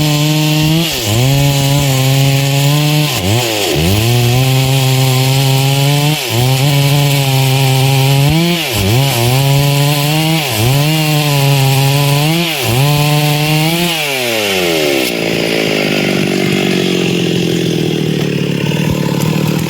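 Stihl MS 382 two-stroke chainsaw with a 24-inch bar cutting wood at high revs, its engine pitch dipping briefly about six times as the chain loads in the cut and picks back up. About fourteen seconds in it comes off the throttle and winds down to idle.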